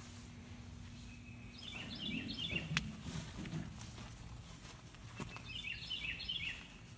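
A songbird singing two short phrases about four seconds apart, each a quick run of high, stepped descending notes, over a faint steady outdoor background.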